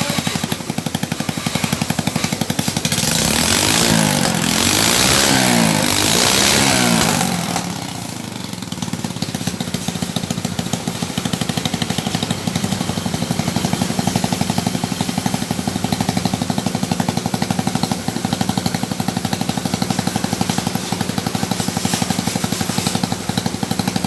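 Motorcycle engine running after a repair, revved up and down several times a few seconds in, then settling to a steady idle. It runs evenly, with no sign of the stuttering misfire it had before.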